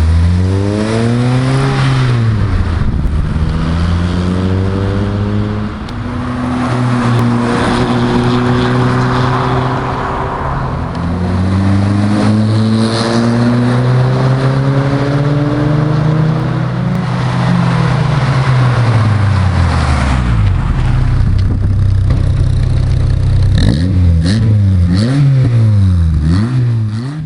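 Peugeot 206 engine through a stainless steel sport exhaust, revved up and held at raised revs, rising and falling over several seconds at a time. Near the end there are four or five quick throttle blips.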